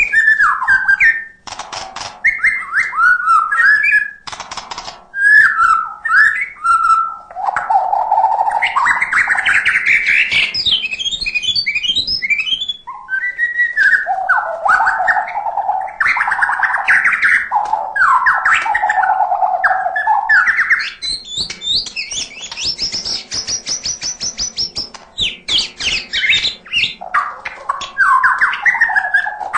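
White-rumped shama singing continuously: a varied run of whistled phrases, rapid trills and chattering notes. About two-thirds of the way through there is a stretch of higher, thinner notes.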